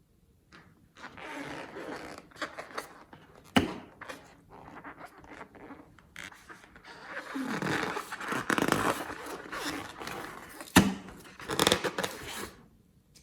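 Slime being squeezed and stretched by hand, in bouts of crackling, squishing noise, with a sharp snap about three and a half seconds in and another near the end.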